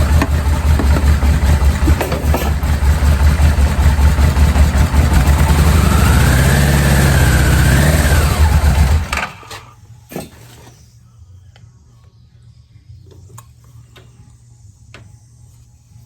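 Yamaha Venture V4 engine cranking over on its electric starter for a compression test, in a steady pulsing rhythm for about nine seconds before it stops suddenly. The owner suspects a leaky valve in the cylinder under test. Light clicks and handling noises follow.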